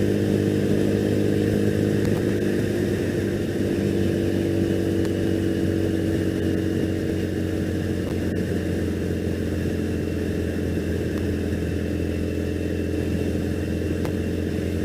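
2001 Triumph Bonneville's air-cooled parallel-twin engine running steadily as the motorcycle cruises along the road.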